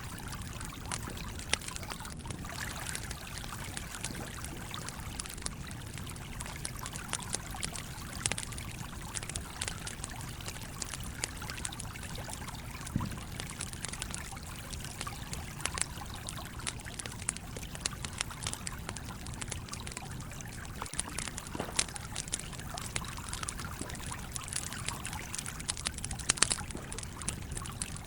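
Campfire crackling, with frequent sharp pops and snaps, over the steady flow of a stream.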